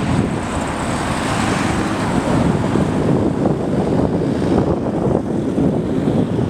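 Blizzard wind buffeting the microphone: a steady, rough rush with irregular low fluttering, and a brighter hiss swelling about a second in.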